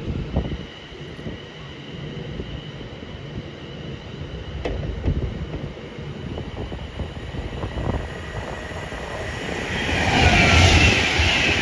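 A train running past on the railway, a steady rumble with occasional knocks from the wheels and track. Near the end it grows louder, with high, wavering squealing tones over the rumble.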